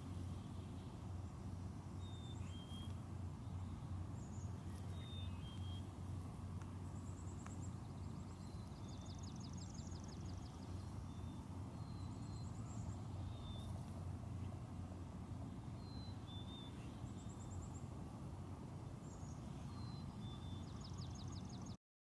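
Small birds chirping and trilling, with short high calls and several quick trills scattered throughout, over a steady low rumble; all sound cuts off suddenly near the end.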